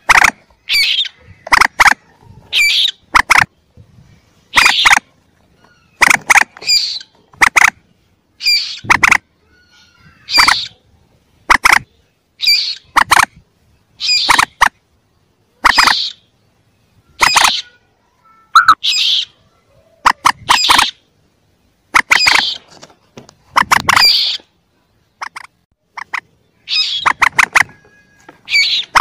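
Young common moorhen calls played as a hunting lure: short, sharp calls, often in quick pairs or threes, repeated about once a second with silent gaps between.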